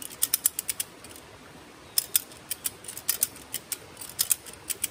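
Slackline ratchet being cranked to tension the line: quick runs of sharp metallic clicks from the pawl, in several bursts.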